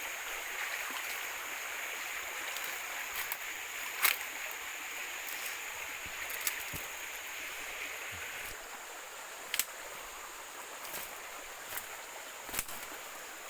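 Steady rush of water, which drops off suddenly about eight and a half seconds in. A few sharp clicks sound over it, along with a thin, steady high tone.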